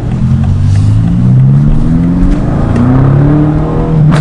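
BMW F90 M5's twin-turbo V8 through a straight catback exhaust, accelerating hard. The engine note climbs in pitch, drops at each upshift and climbs again several times, and there is a sharp burst right at the end.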